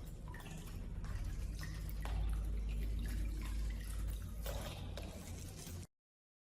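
Liquid dripping in irregular small drops and clicks over a steady low hum, cutting off abruptly near the end.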